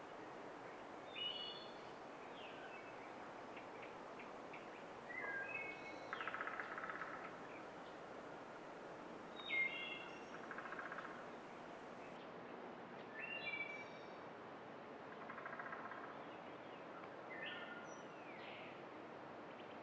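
Wild birds calling over a faint steady hiss: short, clear, pitched notes every few seconds, several followed by a buzzy trill.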